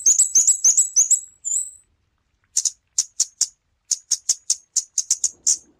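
Flowerpecker calling: a run of sharp, very high ticks, about five a second, breaking off for under a second about two seconds in and then going on in loose clusters.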